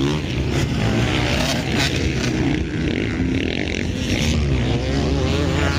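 Motocross bikes' engines revving hard, the pitch rising and falling as the riders accelerate and back off, with more than one bike heard at once at times.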